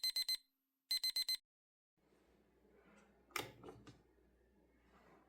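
Electronic alarm beeping in quick groups of four high beeps, about one group a second, which stops about a second and a half in. Faint room tone follows, with a few soft knocks around the middle.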